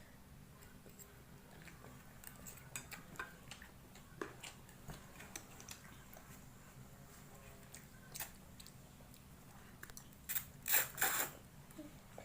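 Eating sounds at a table: soft chewing and mouth smacks with small scattered clicks of cutlery on a dish. There is a louder clatter of cutlery against the plate about eleven seconds in, over a faint steady low hum.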